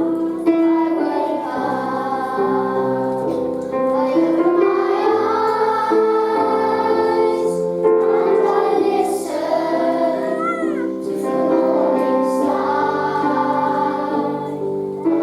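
A choir of primary-school children singing a song together over instrumental accompaniment.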